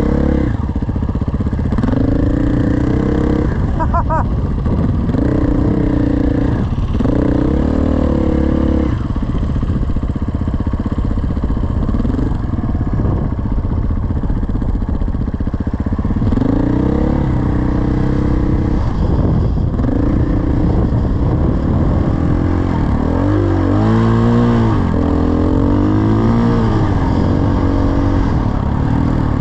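Dirt bike engine running under load as it is ridden, its pitch rising and falling again and again with throttle and gear changes, with a quick sharp rev up and back down about 24 seconds in.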